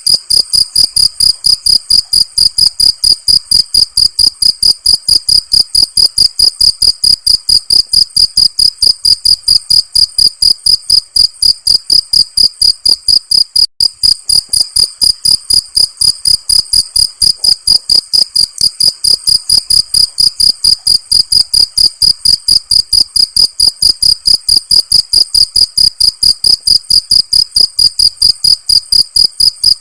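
Cricket chirping in a fast, even rhythm of several high-pitched chirps a second, unbroken throughout.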